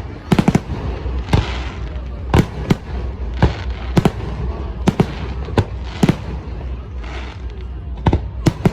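Fireworks display: aerial shells bursting in a string of sharp bangs, about one or two a second, with crackling between some of the bursts over a steady low rumble.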